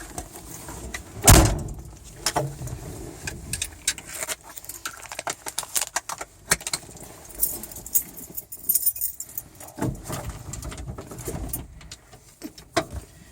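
Keys jangling and rattling in hand, with scattered clicks and knocks of handling and one loud thump about a second in.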